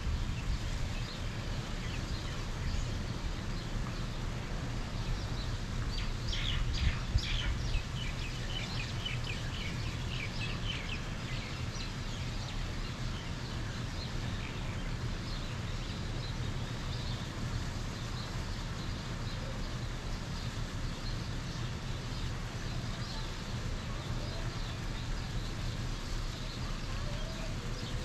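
Birds chirping outdoors over a steady low rumble. A quick run of chirps comes from about six seconds in to about twelve, with a few fainter chirps near the end.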